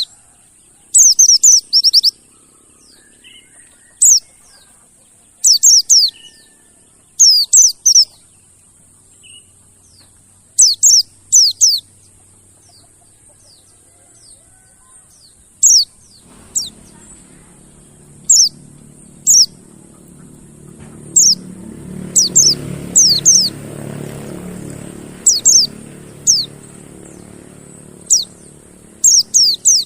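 Pleci (mountain white-eye) calling: short, high, downward-sweeping chirps in quick groups of one to four, repeated every second or two, played as a lure call to get caged pleci singing. A low rumble swells in about halfway through and eases off toward the end.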